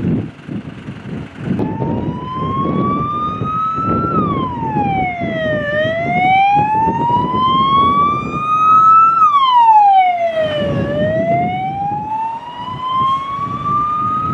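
Emergency vehicle siren in a slow wail, starting a couple of seconds in and rising and falling in pitch about every five seconds, over a low engine rumble.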